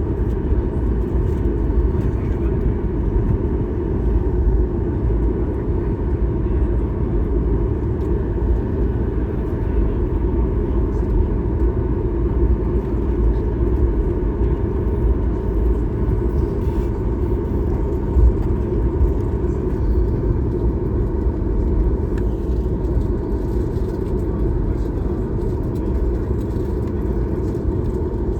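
Steady deep rumble heard inside the cabin of a Boeing 737 MAX 8, from its CFM LEAP-1B engines and the airflow, holding level without rising or falling in pitch.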